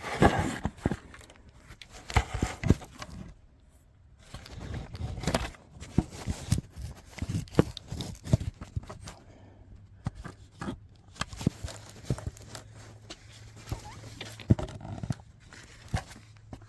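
Irregular knocking, clicking and rustling from the camera being handled and set in place, with a low steady hum coming in about halfway through.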